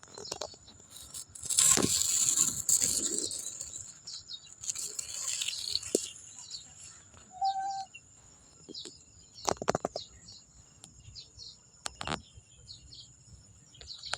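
Birds chirping over a steady high-pitched insect-like hum, with a loud burst of rustling noise about two seconds in and a few sharp knocks later on.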